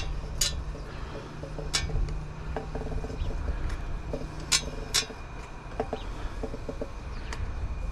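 Several sharp clicks and clinks as an item is worked onto its hanger by hand, over a low steady outdoor rumble.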